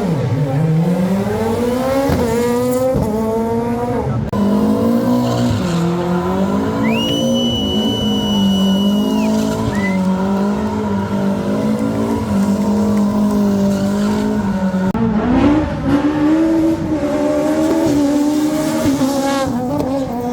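Rally car engine revving hard and shifting up through the gears, then held at high steady revs. The tyres squeal for a couple of seconds in the middle, and the revs climb again near the end.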